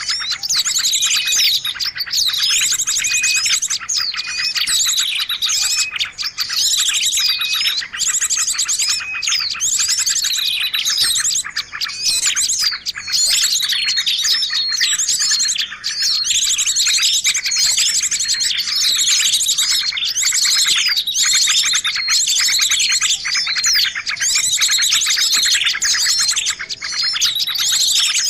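A dense, unbroken chorus of small songbirds chirping, whistling and trilling over one another: a bird-lure recording made to call birds in.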